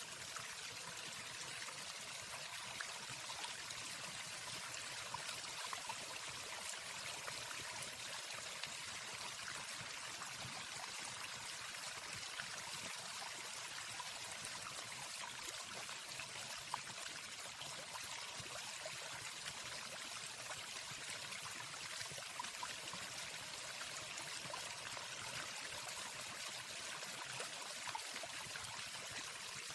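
Waterfall: a steady rush of falling water, even throughout.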